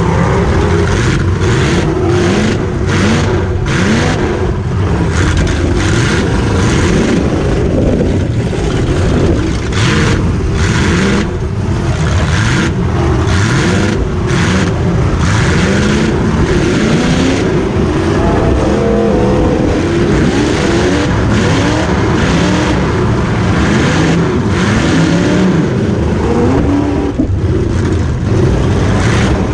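V8 demolition derby car's engine revving up and down over and over, heard from inside the car, with repeated sharp knocks and bangs of the car body being hit.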